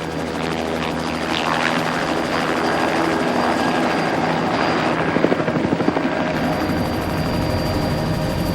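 Light aircraft in flight, its engine and blades droning steadily at a constant pitch.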